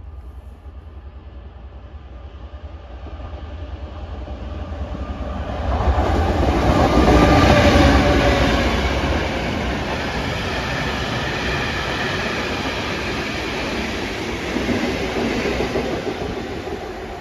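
Diesel freight locomotive approaching and passing under power, its engine loudest about seven seconds in, followed by the wagons rolling past on the rails and fading near the end.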